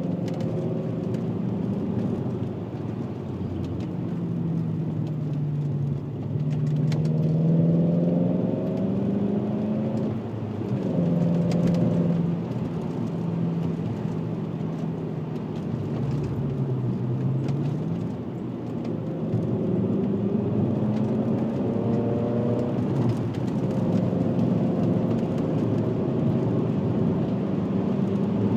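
VW Passat W8's 4.0-litre W8 engine pulling through a custom stainless exhaust with twin rear mufflers while driving. The engine note rises and falls in pitch several times as the car accelerates and eases off.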